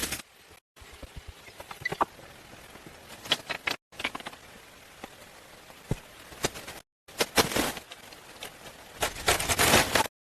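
Short bursts of knocking, clicking and scraping or rustling, the busiest and loudest near the end, broken by several abrupt cuts to silence.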